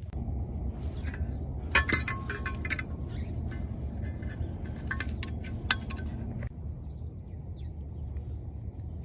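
Clinking and rattling from handling a wire bird feeder and seed, in two short clusters, over a steady low rumble that drops away about six and a half seconds in.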